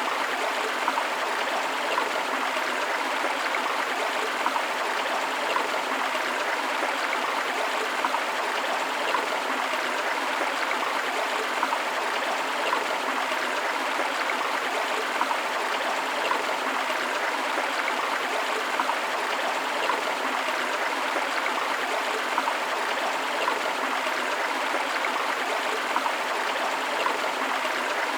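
Steady rushing of flowing river water, an even hiss with a bubbling, gurgling texture.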